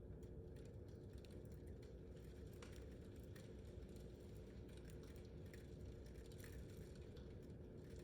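Near silence: a faint steady low rumble with a thin steady hum, and scattered faint ticks throughout.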